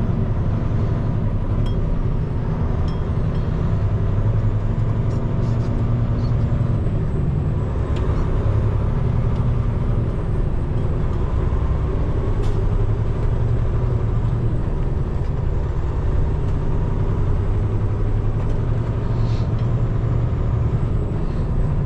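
Peterbilt 589 dump truck's diesel engine and road noise, a steady low drone while the truck drives.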